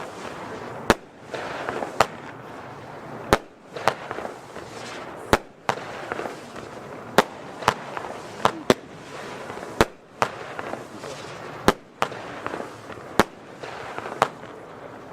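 Nico Golden Rose F2 firework battery firing shot after shot: a sharp bang every half second to a second, with crackling hiss between the bangs.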